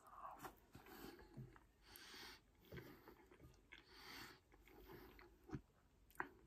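Quiet close-up chewing of a mouthful of loaded fries, with a wooden fork and spoon scraping and tapping on a ceramic plate. There are a few sharp clicks near the end.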